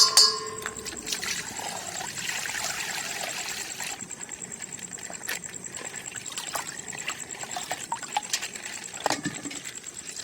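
A sharp burst with a short ringing tone at the start, then water pouring and trickling out of a burst plastic bag of coloured water for a few seconds. Scattered small crackles of the wet plastic bag being handled and torn follow.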